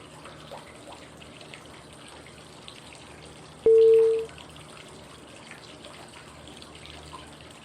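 Steady running-water white noise, with one short clear cue tone about halfway through that starts sharply and fades within about half a second. The tone marks the switch to the next 5-second phase of the inhale–hold–exhale breathing cycle.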